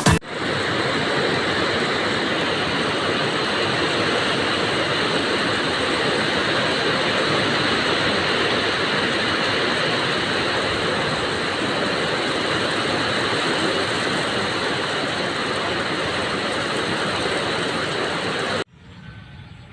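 Heavy rain driven by strong wind, a steady dense rushing noise that cuts off abruptly near the end, leaving a much fainter background.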